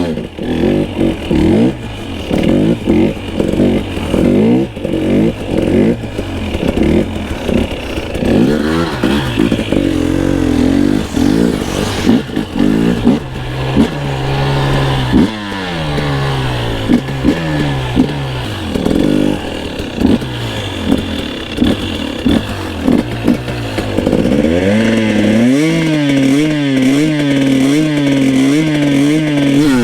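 Two-stroke dirt bike engine under a rider on a motocross track, revving up and dropping off again and again as the throttle is worked. For the last few seconds it holds a steadier, slightly wavering pitch.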